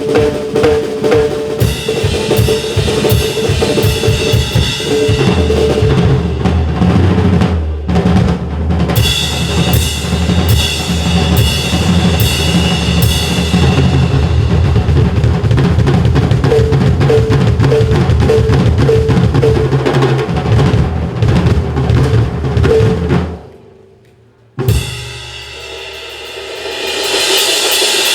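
Drum kit played fast in a drum sanjo, dense snare and bass drum strokes over sustained low tones. It stops abruptly about 23 seconds in, a single sharp hit follows, and cymbals swell near the end.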